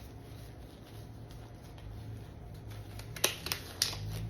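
Disposable gloves being pulled on, with a few sharp snaps about three seconds in, over a low steady hum.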